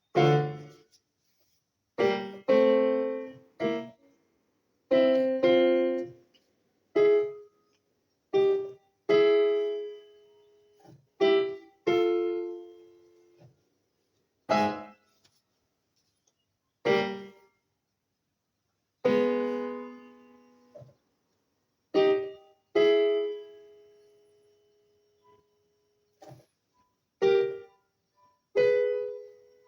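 Piano chords struck one at a time, about twenty of them, each left to ring and die away, with short silent gaps between.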